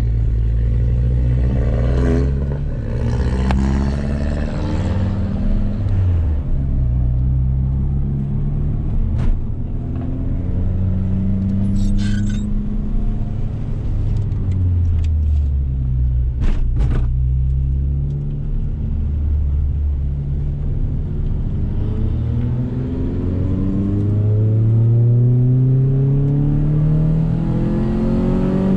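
Renault Clio 2 172 RS's 2.0-litre four-cylinder engine, heard from inside the cabin, accelerating hard up through the gears: the revs climb, drop back at each upshift and climb again, several times over. A few short clicks sound around the middle.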